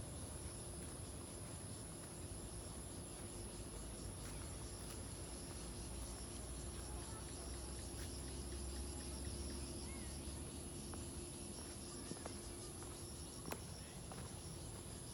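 Insects chirping in a faint, steady chorus: a high continuous trill with a quicker pulsing chirp below it. A low rumble swells for a few seconds midway, and there are a couple of faint clicks.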